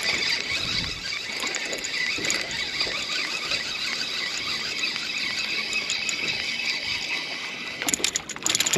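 Fishing reel whirring steadily at a high pitch while a speckled trout is being reeled in; it stops about eight seconds in, followed by a few sharp clicks and knocks.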